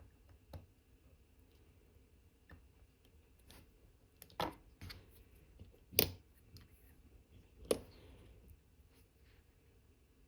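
Small sharp clicks and taps of watchmaker's tools, such as tweezers and screwdrivers, against metal parts and the bench while a wristwatch movement is being assembled. The clicks come singly and irregularly, the loudest about six seconds in.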